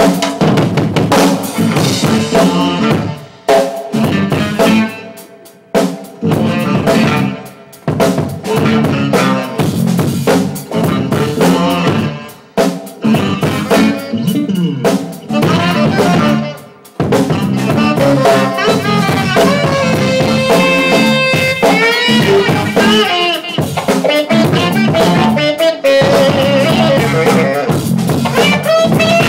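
Rock band playing live in an instrumental break: drum kit with snare and bass drum driving under bass, with a sustained lead line coming in about two-thirds of the way through.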